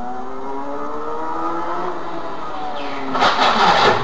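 Car engine accelerating, its pitch climbing for about two seconds and then falling away. About three seconds in, a loud rough noise rises over it.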